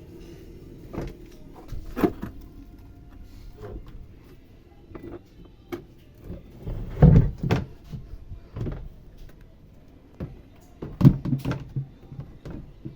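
Irregular knocks, clunks and scrapes of a washing machine's parts being handled and worked on, the loudest a cluster of clunks about seven seconds in and another about eleven seconds in.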